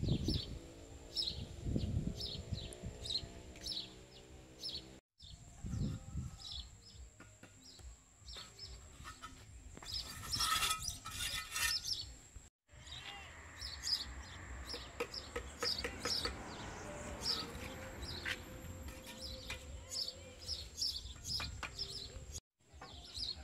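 Small birds chirping repeatedly, short high calls over and over, with a faint steady high-pitched tone beneath and a few scattered knocks and clicks.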